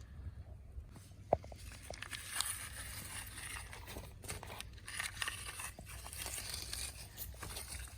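Crunchy scraping and crinkling handling noises from toys being cleaned, with a single sharp knock about a second in.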